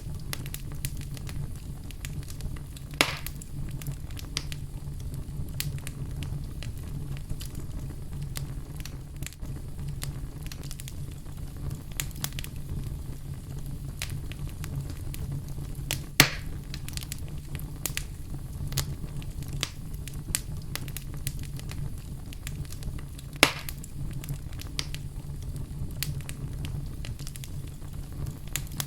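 Wood fire burning in a fireplace: a steady low rumble of flame with frequent small crackles and three louder pops.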